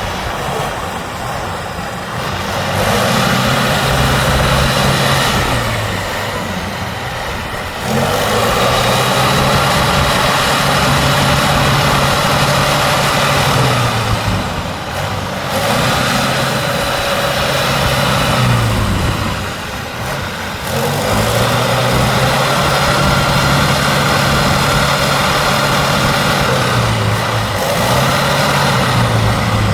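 Trial truck's diesel engine revving up, holding, and dropping back about four times, working hard over an off-road competition section.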